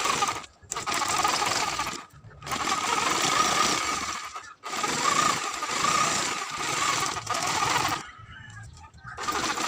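Handheld power tool running in bursts of one to three seconds with short pauses between them, a buzzing, even machine noise.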